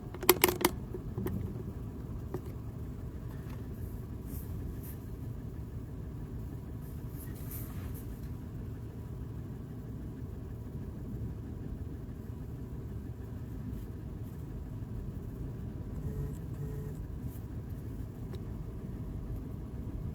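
Steady low rumble of an idling vehicle engine, with a few sharp clicks in the first second.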